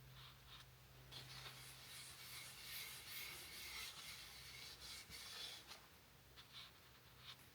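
Faint soft rubbing strokes as board butter, a paste of mineral oil with carnauba and beeswax, is worked into the surface of a wooden pizza peel, over a low steady hum.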